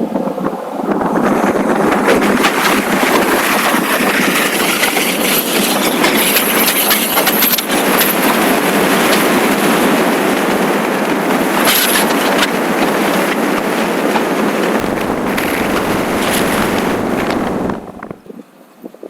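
Loud rush of wind and road noise on the microphone of a motorcycle under way. It falls away sharply near the end as the bike slows.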